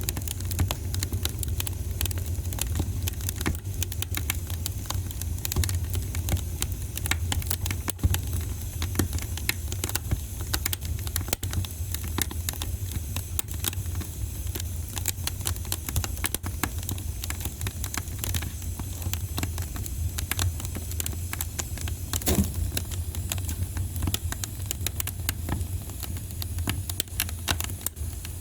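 Wood fire crackling in a fireplace: a dense, irregular stream of small pops and snaps over a steady low rumble, with a few louder pops such as one a little after eight seconds in and one about twenty-two seconds in.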